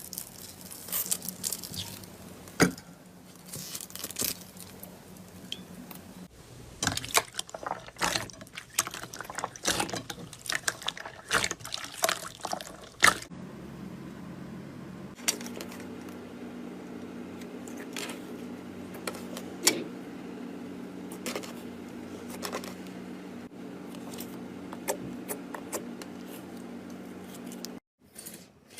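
Hands kneading and squeezing slime: wet squishing with many irregular sharp pops and clicks, over a steady low hum. The sound cuts off suddenly shortly before the end.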